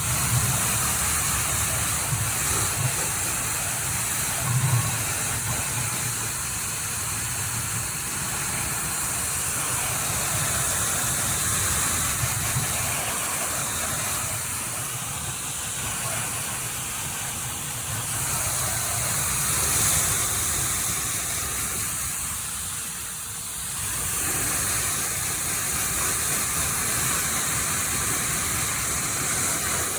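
Electric pressure washer spraying water onto a muddy dirt bike: a steady hiss with the washer's motor humming underneath, the spray's sound shifting as the jet sweeps across surfaces.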